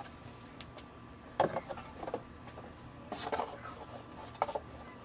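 Plastic knocks and clicks from the air filter housing being refitted over a new filter and its clips snapped into place, with the sharpest knock about a second and a half in.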